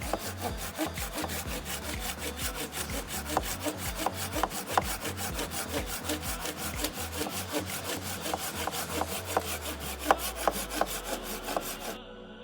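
Rhythmic rasping of a saw cutting through wood, with a few sharper knocks, over background music with a repeating bass line; the sawing cuts off abruptly near the end.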